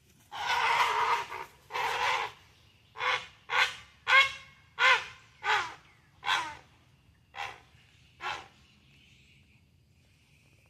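A bird calling loudly: two long, harsh cries, then eight shorter cries that fall in pitch, spaced under a second apart, stopping about eight seconds in.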